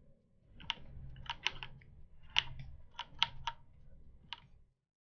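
Scattered taps on a computer keyboard: about ten irregular clicks over a faint low hum, with all sound cutting off abruptly near the end.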